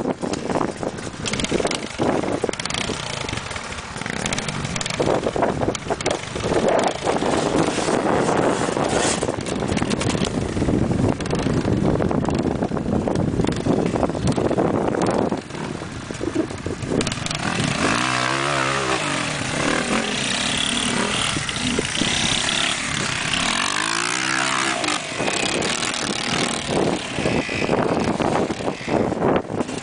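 Dirt bike engine running, revved up and down in pitch twice in the second half.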